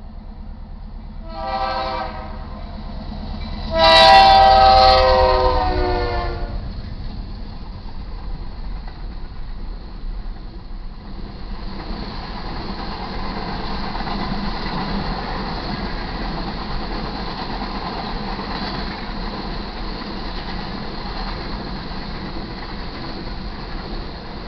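Diesel locomotive air horn on a BNSF GE C44-9W sounds a short blast, then a longer, louder blast about four seconds in, with the low rumble of the locomotives passing. After that the steady rolling clatter of loaded covered hopper grain cars going by on the rails.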